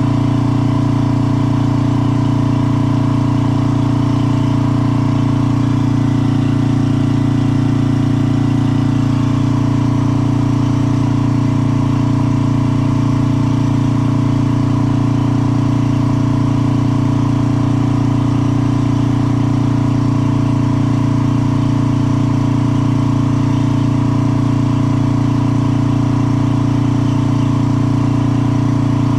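An engine idling steadily, its pitch and level unchanging.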